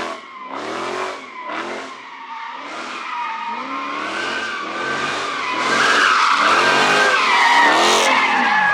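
A car spinning donuts, tyres squealing in a steady high screech while the engine revs in repeated surges, about one or two a second. The squeal grows louder about halfway through.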